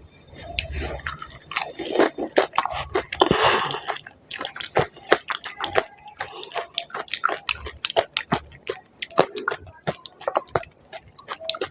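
Close-miked biting and chewing of crisp puri shells (pani puri / golgappa), with repeated sharp crunches and crackles as the hollow fried shells break in the mouth.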